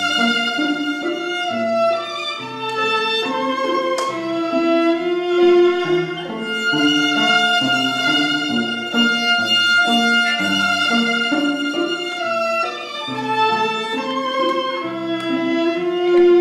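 Violin playing a slow melody of long held notes over a lower accompaniment.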